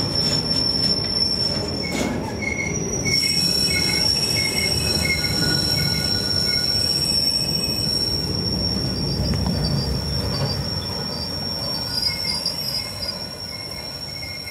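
Container freight train's wagons rolling past close by: a rumble of wheels on the rails with a steady high-pitched wheel squeal over it. The sound drops away near the end as the last wagon passes and draws off.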